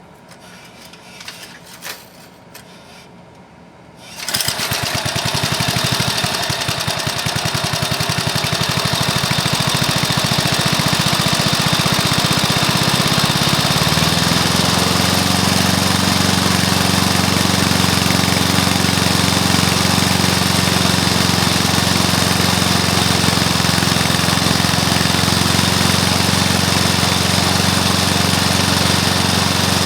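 Freshly rebuilt single-cylinder Briggs & Stratton lawn mower engine, with new piston, rings and valves, starting about four seconds in after a few faint clicks, then running; about ten seconds later its speed rises and holds steady.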